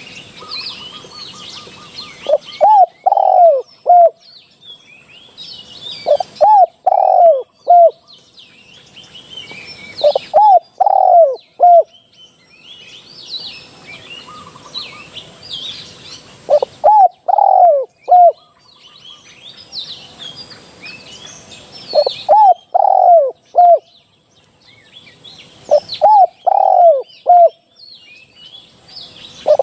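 Spotted dove cooing its three- to four-note phrase, repeated six times at roughly four-second intervals, with smaller birds chirping faintly behind it.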